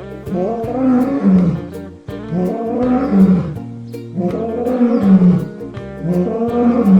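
An animal calling over background music, with about six or seven pitched calls, each bending in pitch.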